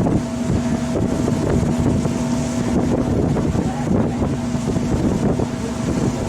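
Tour boat's engine running steadily, a constant hum, with wind buffeting the microphone.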